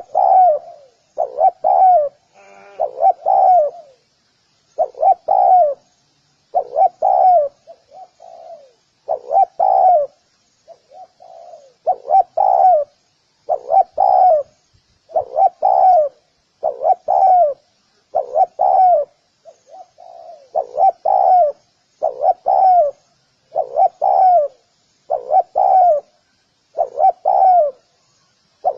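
Spotted dove cooing, a steady run of coo phrases repeated roughly every one and a half seconds, each coo dipping in pitch.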